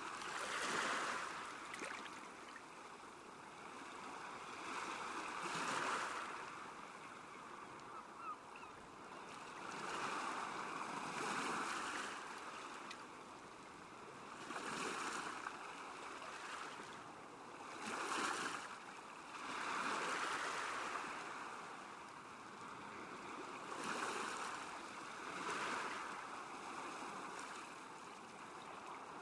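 Small waves lapping on a lake shore, a wash of water that swells and fades every few seconds.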